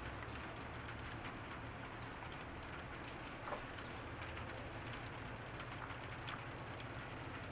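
Steady summer rain falling in a garden, a constant patter of drops with one sharper drip about halfway through, over a faint low rumble.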